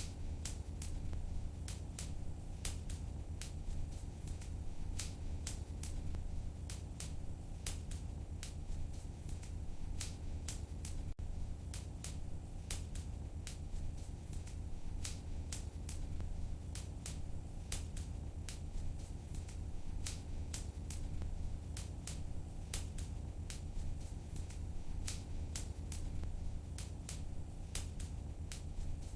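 Wood fire in a fireplace crackling, with irregular sharp pops a few times a second over a steady low rumble of the burning fire.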